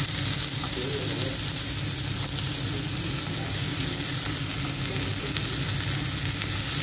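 Chicken strips sizzling steadily as they fry in oil on a black griddle pan, with tongs turning the pieces.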